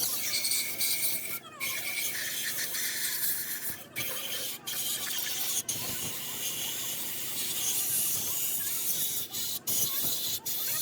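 Steady, high hissing and rubbing noise, broken by several very brief gaps.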